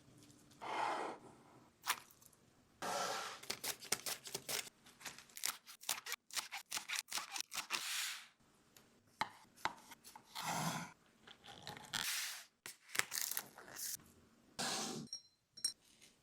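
Salad-prep sounds: a knife chopping vegetables on a cutting board in quick strokes, with longer scraping and rustling swishes in between.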